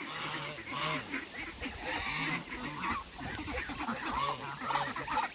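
A flock of geese and ducks calling over one another at feeding time: many short honks and quacks overlapping without a break, a "chaos" of hungry birds.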